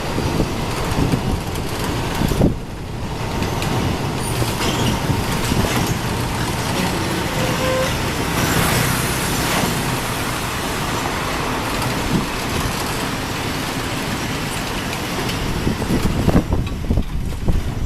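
A train running past on the rail bridge: a steady loud rumble with rolling noise. The high end thins out near the end.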